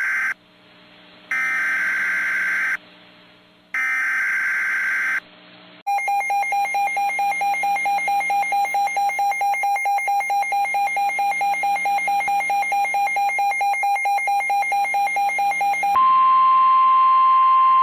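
Emergency Alert System SAME header bursts: three screechy digital data tones, each about a second and a half long, the first already under way. They mark the start of a NOAA Weather Radio warning. About six seconds in, a fast-pulsing electronic alarm beeps about five times a second for some ten seconds. It gives way to the loud, steady 1050 Hz NOAA Weather Radio warning alarm tone.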